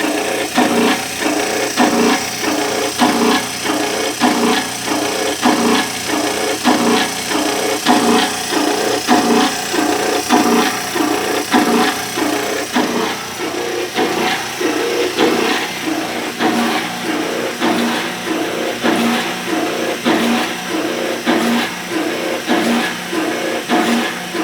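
Antique Wanke washing machine running: its agitator churns back and forth in a regular pulse about once a second over a steady motor hum.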